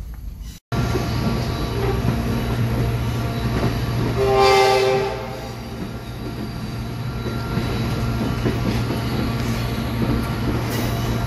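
Passenger train running, a steady low rumble heard from inside the passenger car, with one horn blast from the train about four seconds in, lasting about a second.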